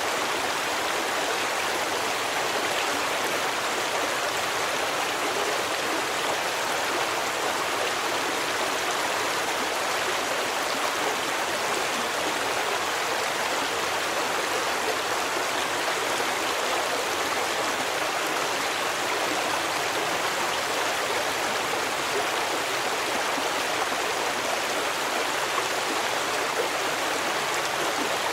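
A forest stream flowing: steady, even rushing of water with no distinct events.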